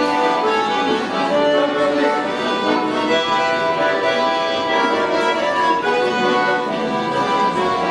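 Accordion-led Cossack folk music, played live by a folk ensemble, with sustained steady chords.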